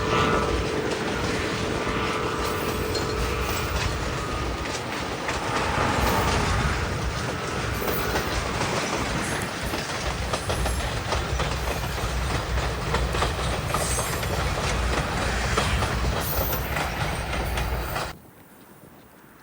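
Freight train rolling past, its wheels running on the rails. The sound cuts off suddenly near the end.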